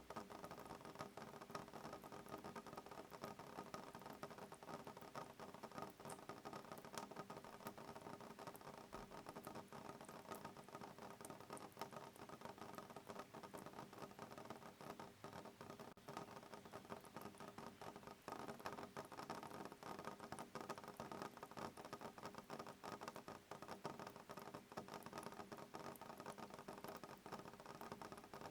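Soft rain pattering on a window pane, a dense, even stream of small drop ticks with no thunder.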